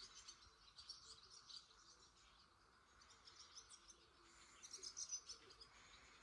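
Near silence, with faint, quick bird chirps coming and going and a little louder about five seconds in, over a steady faint hiss.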